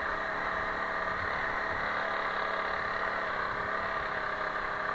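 Honda CRF300L Rally's single-cylinder four-stroke engine running steadily at low revs.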